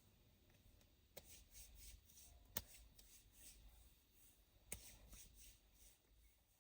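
Faint handling noises: a few soft sharp clicks with light rustling between them, the loudest click about two and a half seconds in.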